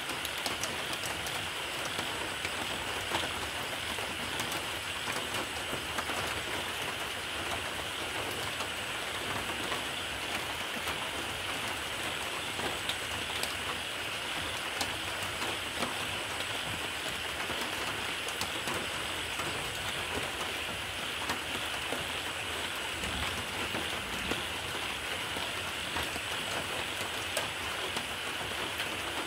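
Steady rain: an even hiss with many small drop ticks.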